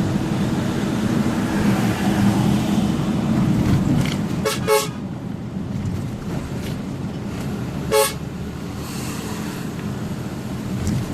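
Engine running steadily under way, with a vehicle horn tooting twice in quick succession about four and a half seconds in, then once more about three seconds later.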